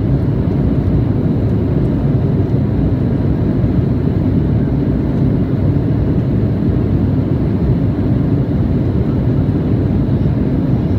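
Steady cabin noise inside an Embraer E175 jet in flight: an even low rumble of its GE CF34 turbofan engines and the airflow over the fuselage.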